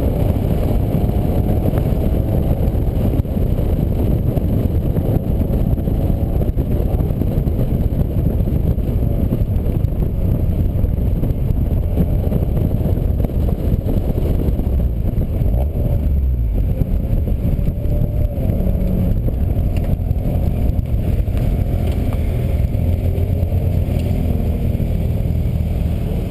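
A vehicle running at speed, heard as a loud, steady low rumble with engine tones that drift gently up and down in pitch.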